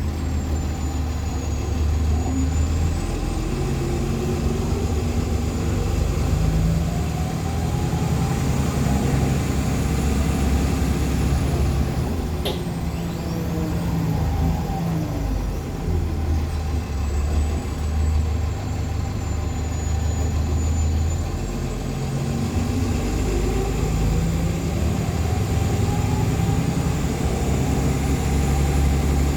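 A Nova LFS articulated hybrid bus heard from inside as it drives, its Cummins ISL9 diesel and Allison hybrid drive running with whines that rise and fall several times as it speeds up and slows. A thin, high turbo whistle glides up and down over it, and a single sharp click comes about twelve seconds in.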